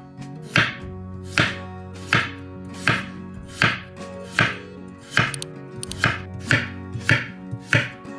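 Knife chopping food on a cutting board: about ten crisp, evenly spaced strokes, roughly one every three-quarters of a second.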